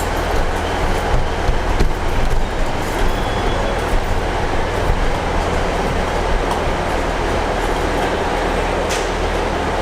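Three-coach diesel passenger train at the platform, a loud, steady rumble of engines and rail noise.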